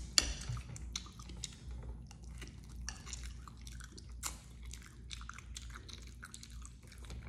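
Open-mouthed chewing of a mouthful of scrambled eggs, close to the microphone, with small irregular smacks and clicks.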